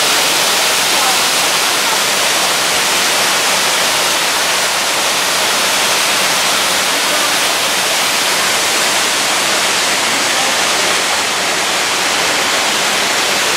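Yellow Branch Falls, a waterfall, rushing with a loud, steady sound.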